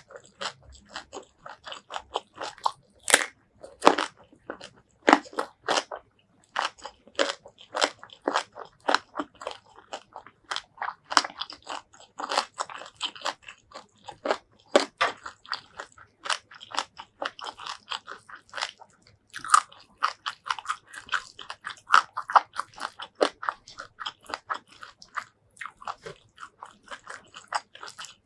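Close-miked chewing of a mouthful of spicy shrimp curry with rice, stink beans (petai) and raw vegetables, eaten by hand: rapid, irregular crunches and wet chewing.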